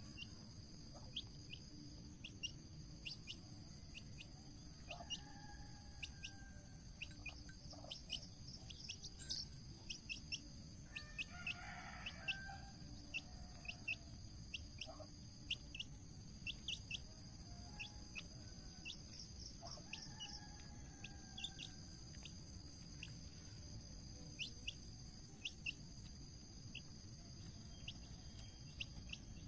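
Birds chirping in short, frequent calls, with a few longer whistled calls, over a steady high insect trill.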